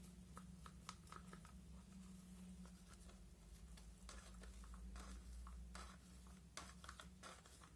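Near silence: faint small clicks and light scratchy handling noises over a steady low electrical hum.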